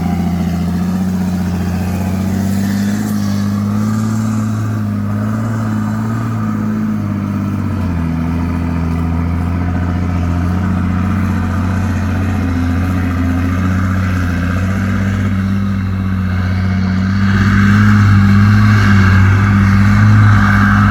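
Heavy diesel dump-truck engine running under load, a steady low drone that shifts in pitch about eight seconds in and grows louder near the end as it works harder.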